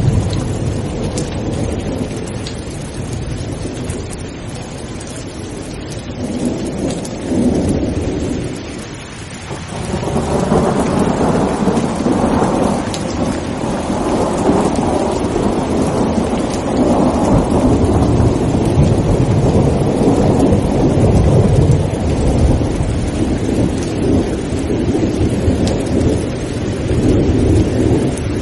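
Steady heavy rain hissing with thunder rumbling underneath. The thunder eases off about a third of the way in, then a long rolling peal builds and rumbles on, swelling and fading in waves.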